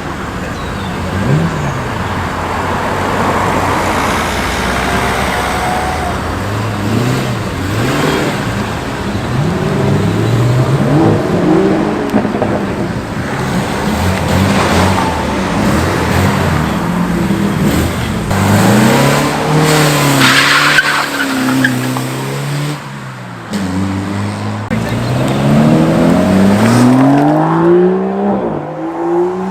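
A succession of cars driving past, engines accelerating with the pitch climbing and dropping back at each gear change, several times over.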